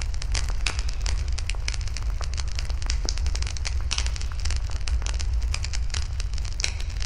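Wood campfire burning, with dense irregular crackling and popping of the burning wood over a steady low rumble.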